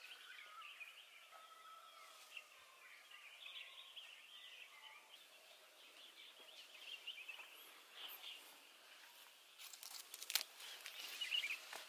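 Faint birds chirping and singing, with a few soft clicks or rustles near the end.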